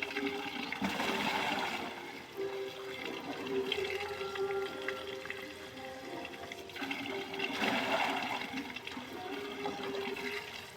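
Water gushing in two short rushes, about a second each and several seconds apart, over a steady low hum.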